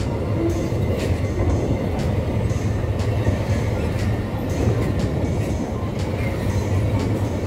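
Empty freight wagons rolling past close by: a steady low rumble of steel wheels on rail, with sharp clacks every half second or so as the wheels cross rail joints.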